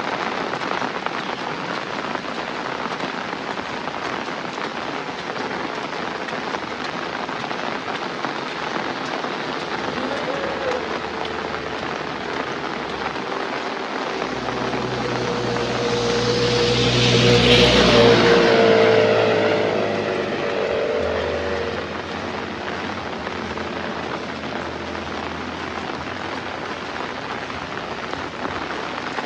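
Heavy rain falling steadily. A little past halfway a motor vehicle passes, its engine sound swelling to a peak and fading away over several seconds.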